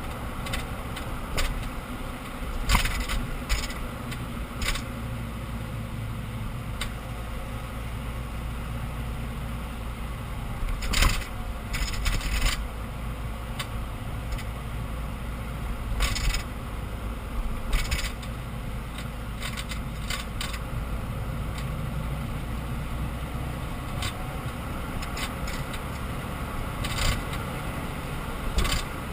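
Irregular clacks and knocks from the rear axle of a BMW E46 320d Touring over steady low driving rumble. The clatter comes from no-name rear brake pads sitting loose with slight play in their caliper.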